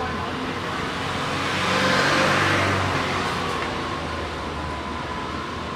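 Road traffic: a vehicle passing, its noise swelling and fading about two seconds in over a steady low hum.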